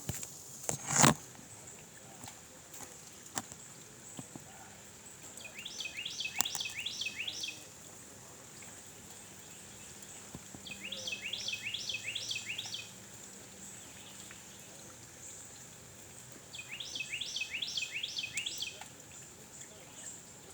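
A songbird singing three phrases, each a quick run of about six repeated high notes that sweep downward, with pauses of a few seconds between them. A single sharp knock about a second in is the loudest sound.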